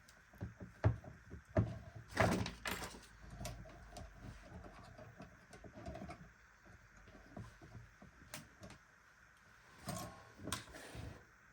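Irregular clicks, knocks and a few heavier clunks of hands working on a motorcycle ignition lock and key, with metal parts being handled.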